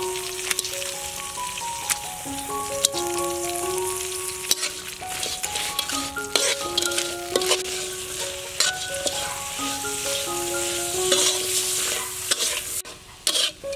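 Giant water bugs frying in a metal wok, stirred with a metal spatula: a steady high hiss of frying, broken by frequent clicks and scrapes of the spatula on the wok. A background music melody of held notes plays over it.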